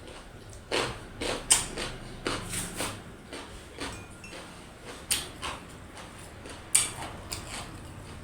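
A person eating close to the microphone: chewing and mouth smacks at irregular moments, the sharpest about one and a half, five and seven seconds in.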